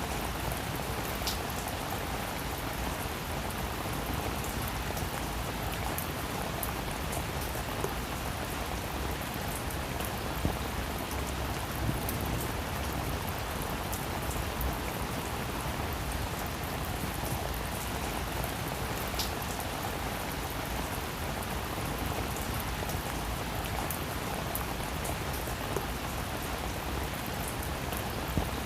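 Steady rain falling on a roof, an even patter with scattered sharper drop ticks now and then.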